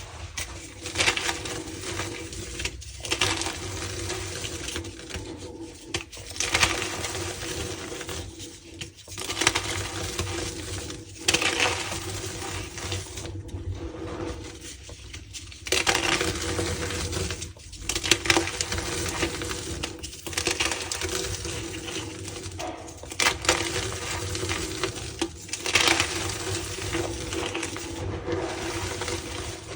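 Reformed gym chalk blocks being crushed, a crunchy crackling that comes in bursts every two or three seconds over a faint steady hum.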